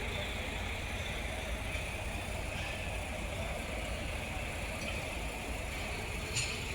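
Heavy truck engine idling steadily, with one short click near the end.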